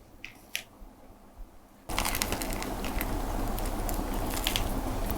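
Crinkling and crackling of food packaging being handled, starting suddenly about two seconds in over a steady hiss.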